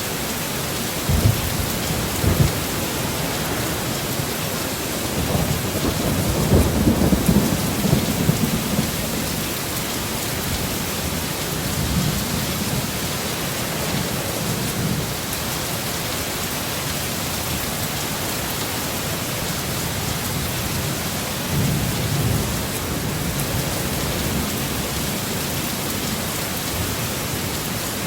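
Heavy rain falling steadily, with rolling thunder over it: two short low claps a second or two in, the longest and loudest rumble a few seconds later, and weaker rumbles in the middle and later on.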